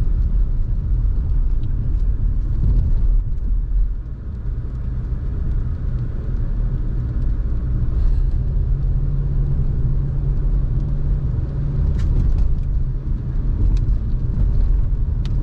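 Steady low rumble of a car's engine and tyres on the road, heard from inside the cabin while driving uphill.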